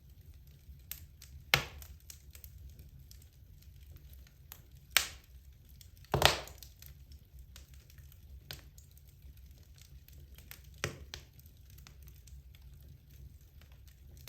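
Wood fire burning in a fireplace: a steady light crackle of burning logs with a few sharp louder pops, four standing out, the loudest a quick double pop about six seconds in.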